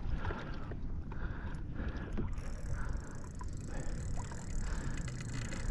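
Fishing kayak moving on the water, with soft rhythmic swishing of water against the hull and a steady low rumble.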